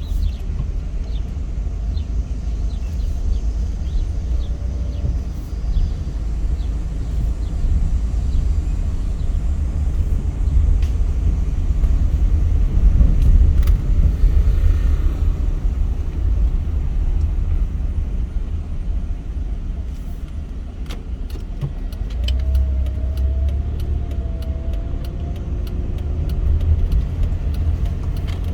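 Car driving along, a steady low rumble of engine and tyres on the road.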